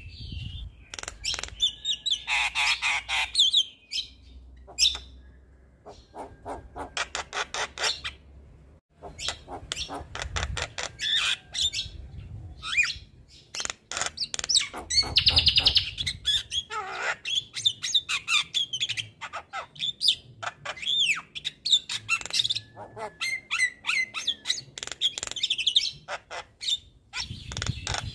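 Male Javan myna (jalak kebo) singing continuously: a varied run of rapid clicking rattles, chattering and short whistled notes.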